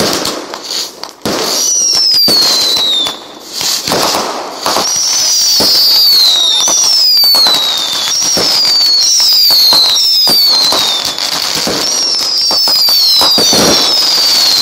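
Fireworks barrage: sharp bangs and dense noise under a string of high whistles, each falling in pitch, following one another about once a second. From about a second and a half in, the noise becomes dense and continuous.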